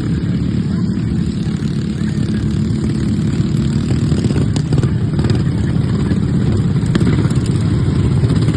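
Stock riding lawnmower engines running hard in a race, a loud, steady engine drone.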